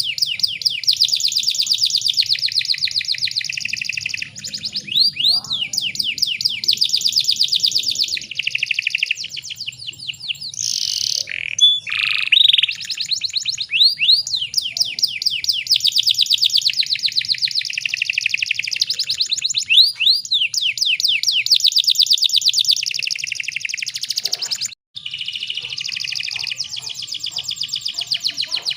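Domestic canary singing long, fast rolling trills, the notes repeating many times a second. A few louder, harsher notes come about eleven seconds in, and the song breaks off briefly near the end.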